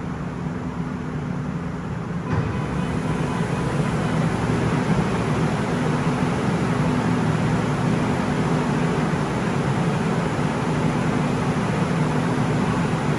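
Steady rumble and low hum of a Seoul Subway Line 9 train, stepping up in level about two seconds in and then holding steady.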